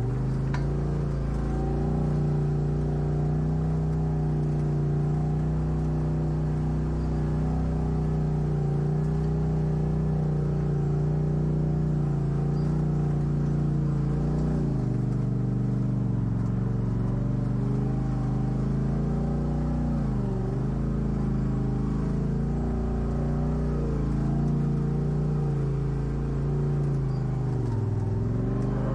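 Off-road vehicle engine running under steady throttle, its pitch held level and then dipping and climbing back a few times, about halfway through and twice more toward the end.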